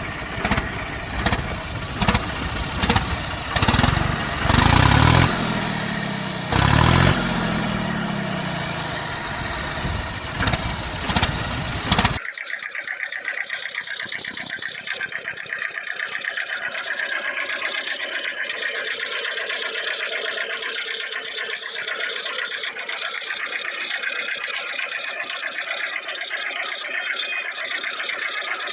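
Vehicle engine sounds, in two parts. The first stretch has repeated sharp clicks and two loud tones falling in pitch. About twelve seconds in, it cuts abruptly to a steady engine-like drone.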